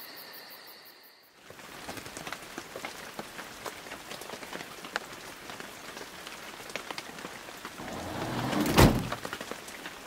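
Steady rain pattering, with many single drops ticking, once the last of some music has faded out. Near the end a swelling rush ends in one loud thump.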